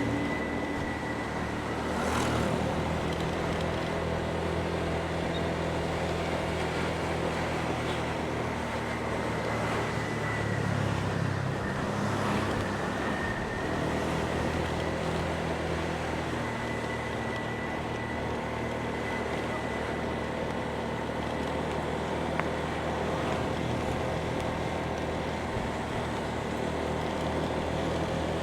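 Motorbike engine running steadily while riding along, with road and wind noise; the engine note swells briefly a couple of times.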